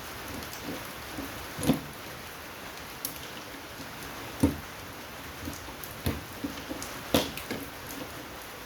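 Steady rain hiss, with a few sharp knocks and clicks scattered through it, the loudest about two seconds and four and a half seconds in.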